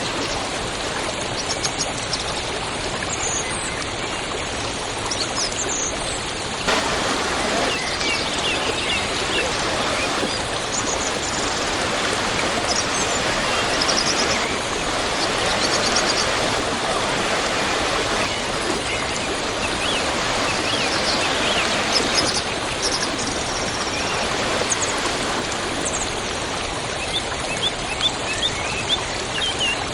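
Waterfall rushing steadily, with small birds chirping briefly over it now and then.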